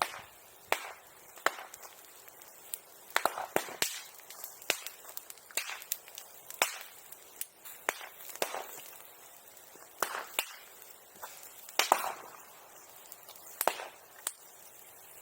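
Bonfire with burning bamboo crackling, giving sharp, irregular pops and snaps, a few of them loud, about one or two a second.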